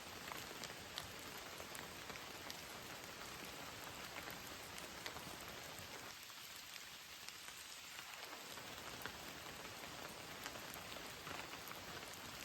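Heavy rain falling steadily, a dense hiss dotted with many sharp individual drop ticks. The low part of the sound thins out for about two seconds midway.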